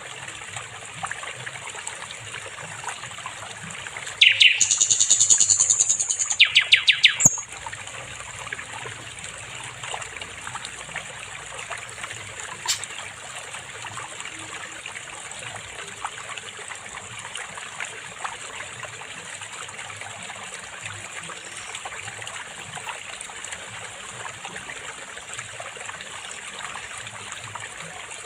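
A sikatan londo flycatcher sings one fast run of high, rapid chirping notes about four seconds in, lasting about three seconds, with one short high note a few seconds later. A steady trickling stream runs underneath.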